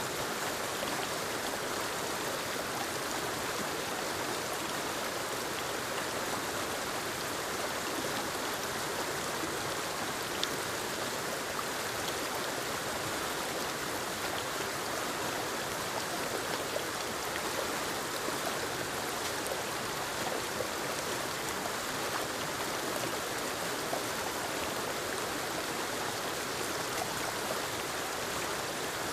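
Forest waterfall pouring into a stream: a steady, even rush of falling water with a few faint ticks of splashing.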